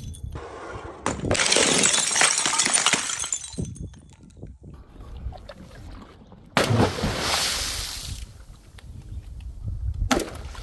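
Glass breaking with liquid splashing: two sudden smashes about five and a half seconds apart, each followed by a second or two of crashing and sloshing that dies away, and a smaller hit near the end.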